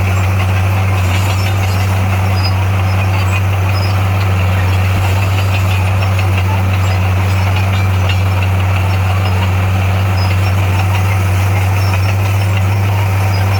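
Heavy-equipment diesel engine running steadily at a constant speed, a low, even drone with no revving.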